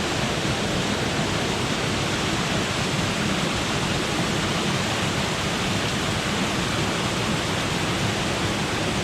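Waterfall close by, falling water making a steady, dense rush with no change in level.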